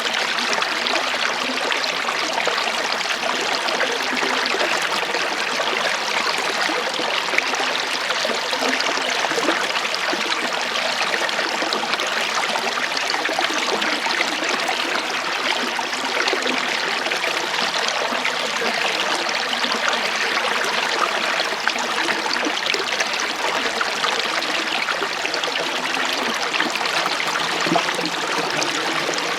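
Running water in a small stream, flowing steadily with a continuous trickling rush.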